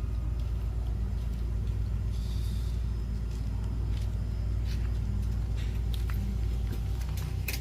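Steady low rumble of a motor vehicle's engine running, with a few faint clicks over it.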